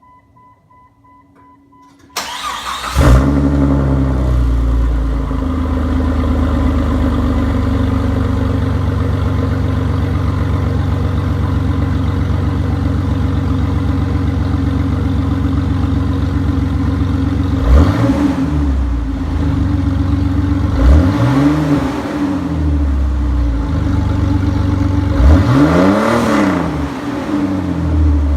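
A 2001 Jeep Cherokee XJ engine with a straight-piped exhaust (stock muffler cut off, replaced by a short pipe and tip) cranks about two seconds in, catches and idles. It is revved three times in the second half, each rev rising and falling back to idle.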